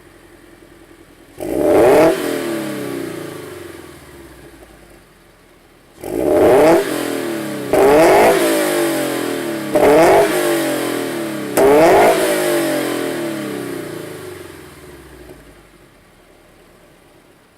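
2013 Subaru BRZ's FA20 flat-four, breathing through a Tomei unequal-length header, Fujitsubo cat-delete front pipe and Blitz Nur-Spec R cat-back exhaust, revved hard from idle five times: each blip climbs fast, holds briefly and falls slowly back. The first comes alone about a second and a half in, the other four follow in quick succession, and the engine settles back to idle near the end.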